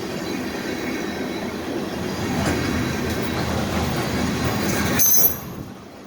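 Train passing on the rails with a steady rumble of wheels. About five seconds in there is a brief high squeal, and then the sound drops away sharply.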